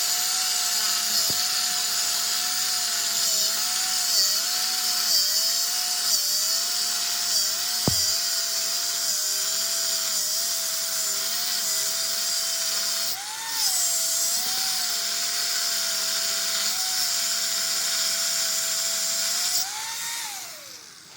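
Electric power tool motor running steadily with a hiss, its pitch dipping briefly several times as it is pressed into the work. Near the end it speeds up unloaded, then is switched off and winds down.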